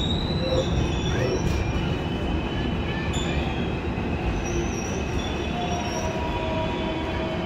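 Shatabdi Express passenger coaches rolling slowly through a station: a steady rumble with high, thin metallic squeals from the steel wheels on the rails that come and go.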